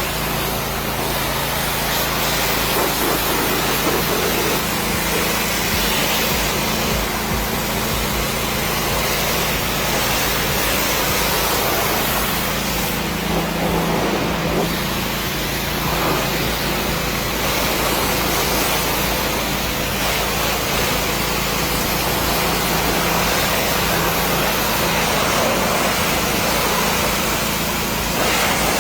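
Pressure washer spraying a car, a steady hiss of water jet over the even hum of the washer's motor.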